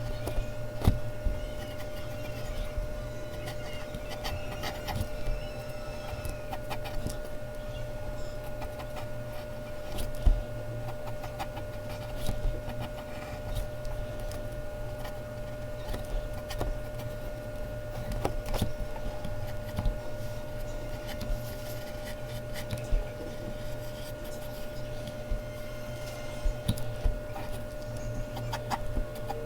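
Mechanical pencil scratching and tapping on Bristol paper in short, irregular strokes, over a steady low hum.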